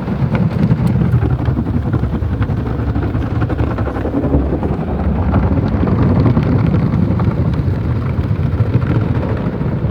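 Automatic tunnel car wash machinery working over the car, heard from inside the cabin: a loud, steady rumble of brushes and water spray against the body.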